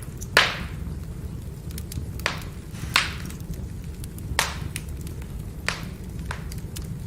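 Firewood burning: a steady low rumble of the fire with about six sharp crackles and pops spread through, the loudest about half a second in and another at three seconds.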